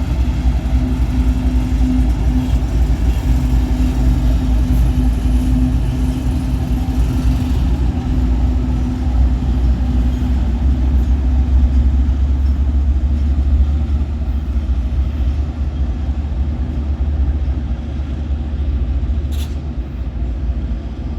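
Diesel locomotive engine running with a steady deep sound and a humming tone that fades out about halfway through.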